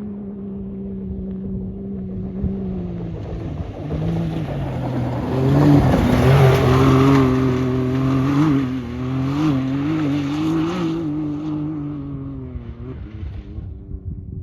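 Can-Am Maverick X3 Max side-by-side's turbocharged three-cylinder engine driving over sand dunes. It runs steadily at first, then gets louder with a wavering pitch through the middle, and eases off near the end.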